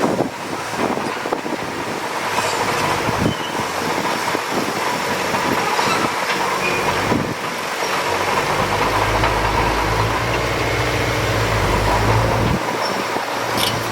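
Heavy diesel earthmoving machinery working: engine running with repeated metallic clanks and knocks. A deeper engine note swells up about nine seconds in and cuts off suddenly about a second before the end.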